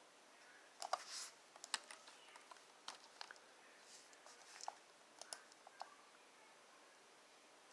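Faint, scattered light clicks and taps, about a dozen over the first six seconds, some in quick little clusters, then a quieter stretch.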